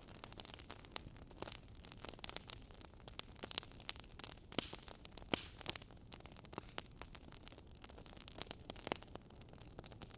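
Wood fire crackling in a fireplace: irregular sharp snaps and pops, several a second, over a faint steady hiss.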